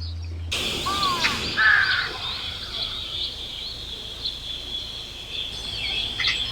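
Birds calling, with a loud harsh caw about a second and a half in, over a steady high-pitched trill.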